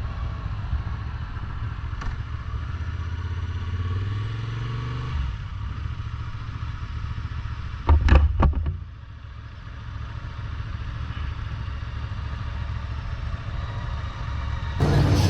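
Motorcycle engine running steady, its pitch easing down about five seconds in. About halfway through comes a brief loud clatter, and after it the engine is quieter.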